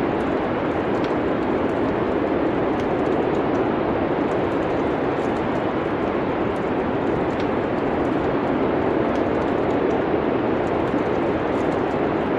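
Steady, even rushing noise, like wind, with sparse faint crackles from a wood fire scattered through it.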